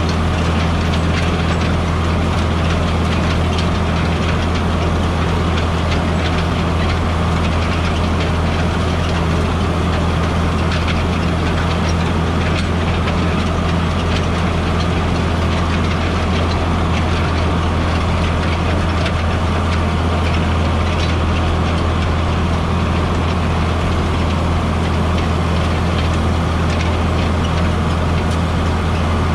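Farm tractor's diesel engine running at a steady speed, a deep even hum that never changes.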